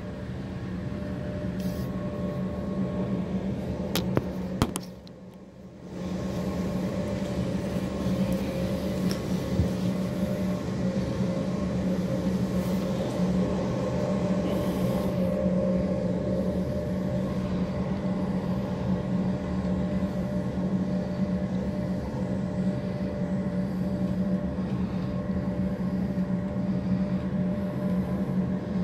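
Passenger train running, heard from inside the carriage: a steady rumble with a constant low hum. About four to five seconds in there are two sharp clicks, then the sound drops away for about a second before returning.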